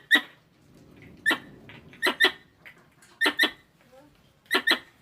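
Squirrel calls: short, sharp chirps, mostly in pairs, about one call or pair a second.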